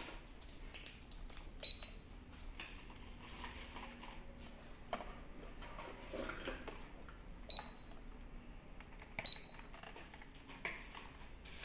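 Toy cash register beeping three times with short, sharp high beeps as a pretend card payment is made, amid light clicks and rustling of plastic toys being handled.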